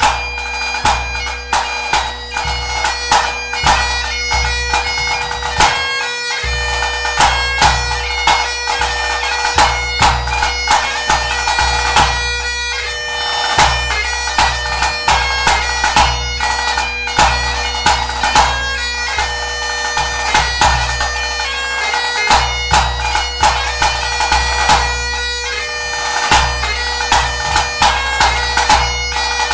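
Great Highland bagpipe playing a tune over its steady drones, with a bass drum beating the pulse in regular strokes.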